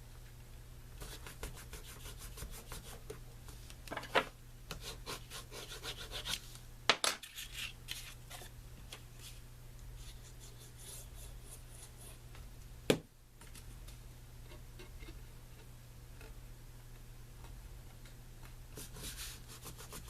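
Paper and cardstock being handled and rubbed down against a work surface, with scattered scraping and a few sharp knocks, the loudest about 7 and 13 seconds in.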